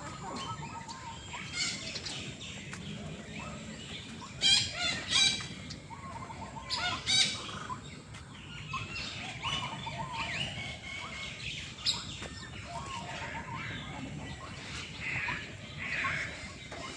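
Many captive birds of mixed kinds chirping and calling together, with a few louder calls about four to five seconds in and again around seven seconds.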